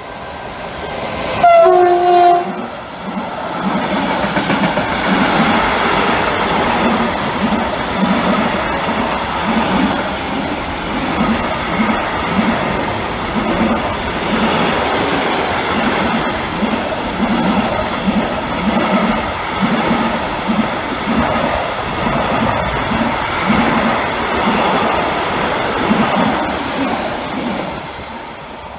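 A train sounds a short horn blast about two seconds in, then passes for over twenty seconds, its wheels clattering over the rails in a regular rhythm before the noise fades near the end.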